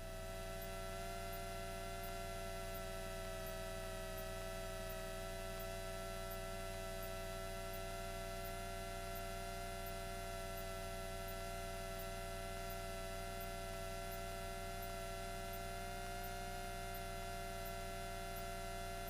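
Steady electrical hum made of several constant tones, as heard on a Cessna 172's cockpit intercom audio feed, with faint regular high ticks.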